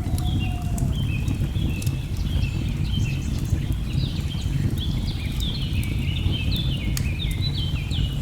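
Layered fireplace and nature ambience: a waterfall's steady low rush, sharp crackles from burning logs, and many quick falling bird chirps that grow busier from about four seconds in.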